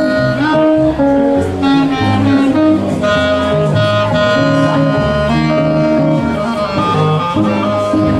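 Jazz quartet playing an instrumental passage with no vocals: long held melody notes over a moving bass line.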